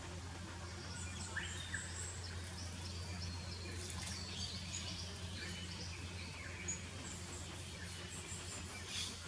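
Several small wild birds calling around a garden, with short high chirps and twittering notes overlapping through the whole stretch, over a steady low hum.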